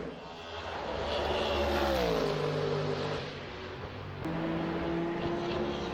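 Ford Mustang GT3 race car's V8 engine and exhaust. The note falls in pitch about two seconds in as the revs drop, then settles to a steady note near the end.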